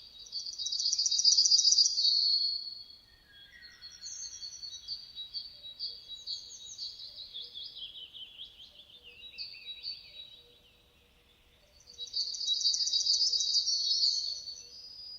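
Songbirds singing: a loud, fast trilled phrase of rapidly repeated high notes in the first couple of seconds and again near the end, with softer, varied chirps and short twittering notes in between.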